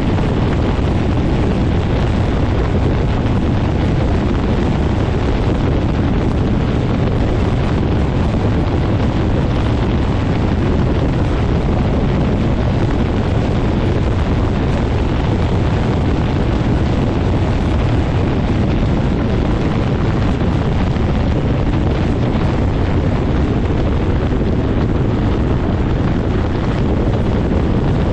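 Quicksilver MX ultralight's engine and propeller running steadily, heavily buffeted by prop blast and wind on the microphone.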